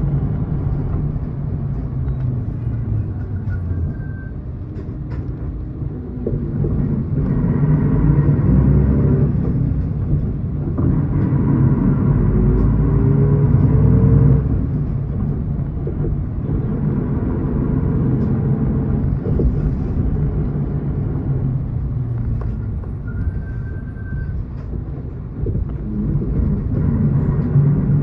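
Miyazaki Kotsu route bus running, heard from inside the cabin: a steady low engine and road rumble. The engine note rises twice as the bus pulls away and gathers speed, between quieter stretches.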